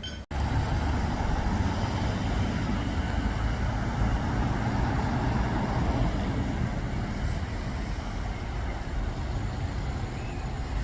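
Steady rumble of road vehicles, heavy in the low end, starting after a brief dropout just after the start.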